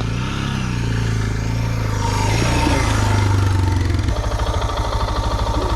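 Motorcycle engine running at low speed, getting louder about two seconds in, then settling into an even, pulsing beat near the end.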